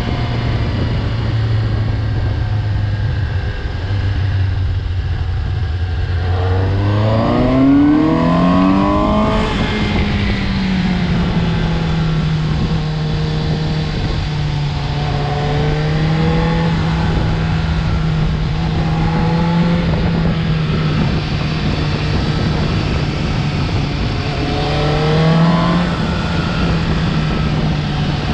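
Suzuki GSX-S750's inline-four engine heard from the rider's seat: running steadily at low revs, then pulling up through the revs for a few seconds about a quarter of the way in, and holding a steady higher note for the rest, with a brief rise near the end. Constant wind and road noise underneath.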